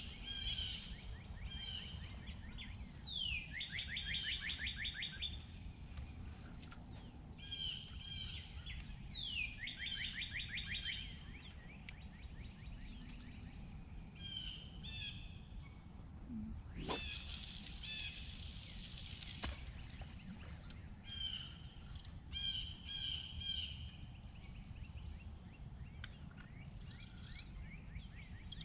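Songbirds singing and chirping over a steady low outdoor rumble, one song repeating a falling sweep that runs into a fast trill. About two-thirds of the way through, a rush of noise lasts a couple of seconds.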